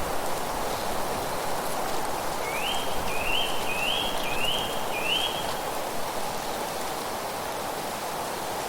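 A bird gives five quick, evenly spaced calls, each rising in pitch and then holding, starting about two and a half seconds in and ending about three seconds later. Underneath is a steady rushing noise.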